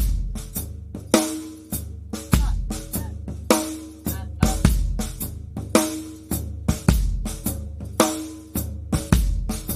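Drum kit playing a groove: hi-hat, snare backbeat and bass drum with quiet snare ghost notes between the strokes, including the extra ghost notes on the 'e' of 3 and of 1. A single low tom hit is followed by two bass drum strokes, and loud accents recur about once a second.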